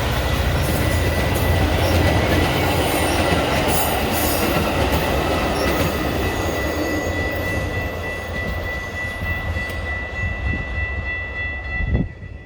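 Metra commuter train passing at close range: heavy rumble and rail noise that gradually fades. A steady high tone runs throughout, and a sharp knock comes just before the end.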